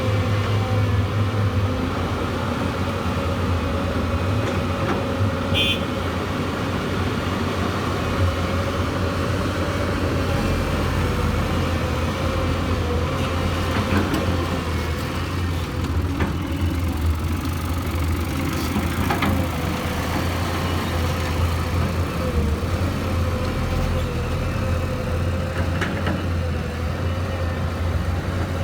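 Diesel engine of a Hyundai Robex R220-9SH hydraulic excavator running steadily at work, a continuous drone with a steady whine over it and a few faint knocks.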